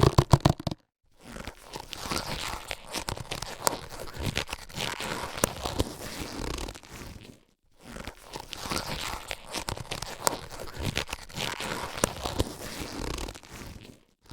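Latex surgical gloves being handled and stretched, giving rubbery rustling and crinkling in two long stretches with a brief pause between them. A louder burst comes right at the start.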